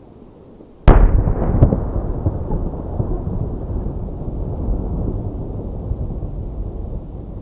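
A large aerial firework shell bursting with one very loud boom about a second in, then a long low rolling rumble that fades slowly over several seconds.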